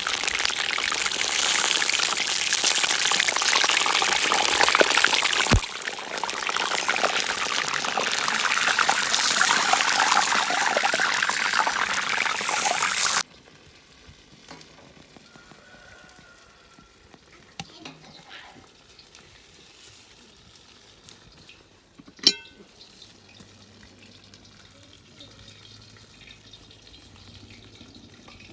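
Chebureki deep-frying in hot oil in a kazan: loud, dense sizzling and crackling that cuts off abruptly about halfway through. It is followed by faint background sound and a single sharp click.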